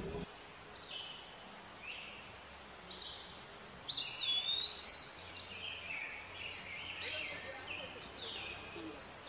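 Birds chirping: short, high, sliding chirps, a few at first, then many overlapping and louder from about four seconds in.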